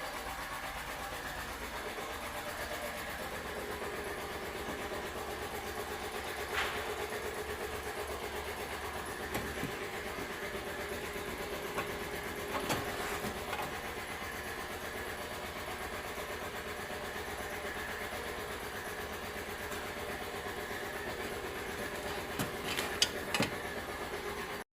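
Steady mechanical hum of a running machine, with a few sharp clicks or knocks about a third and halfway in and several more near the end.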